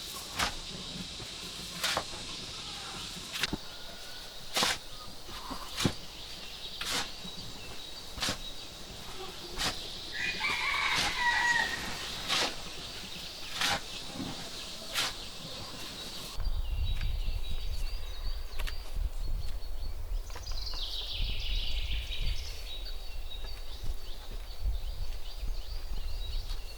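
Sharp knocks about once a second, with a rooster crowing about ten seconds in. Then, about sixteen seconds in, the knocks give way to a low rumble and a steady high hum.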